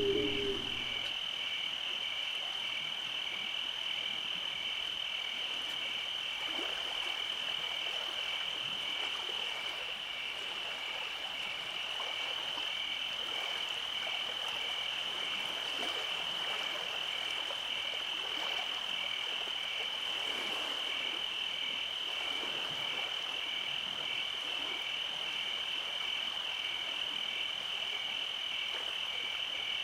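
Night chorus of calling frogs and insects: a continuous high trill with a rapidly pulsing chirp just below it, holding steady throughout.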